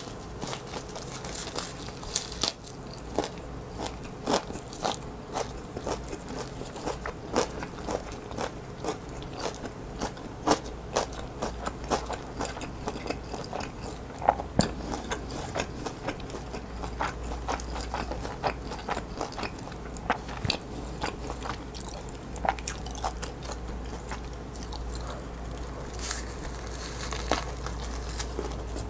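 Close-miked biting and chewing of a kimchi fried rice kimbap roll, with many short, sharp, wet mouth clicks and crunches.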